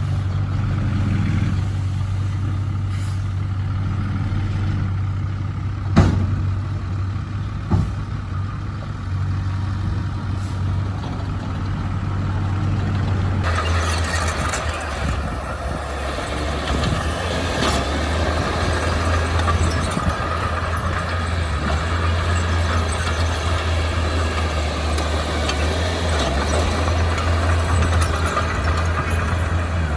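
Heavy-equipment diesel engine running steadily, with two sharp metal clanks about six and eight seconds in. About halfway through the sound gets noisier and busier, as the machine works harder or starts moving.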